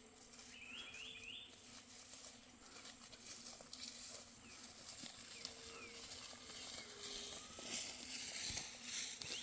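Outdoor camp ambience: a bird gives four quick rising chirps near the start, then soft rustling and crackling handling noises grow louder toward the end.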